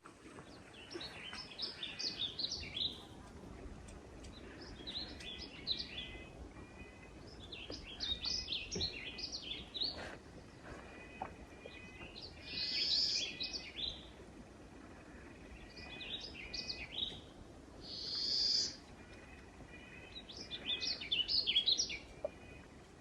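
Songbirds singing: about seven short, jumbled song phrases of quick high notes, each one to two seconds long and coming every few seconds.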